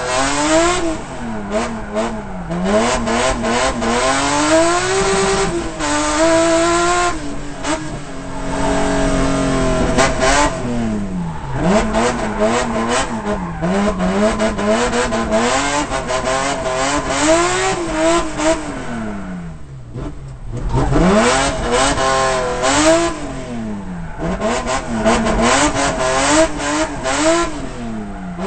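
BMW M3 engine heard from inside the cockpit, revving hard and falling again over and over as the car accelerates and slows through a cone course; the revs drop low briefly about two-thirds of the way through before climbing again.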